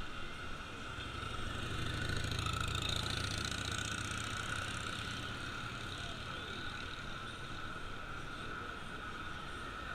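A motor vehicle passes by: its engine rumble swells about two seconds in and fades out by about six seconds, over a steady high hum.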